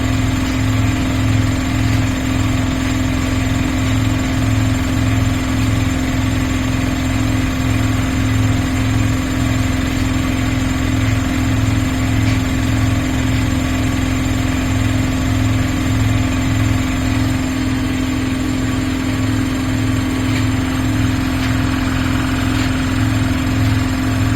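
2011 Miele PW 6080 commercial washing machine running at a steady speed: a constant motor hum with a low throb that pulses about twice a second.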